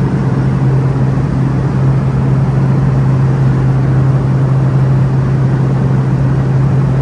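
Cabin noise of a small private plane in flight: a steady low engine drone over the rush of air past the fuselage, heard from inside the cabin.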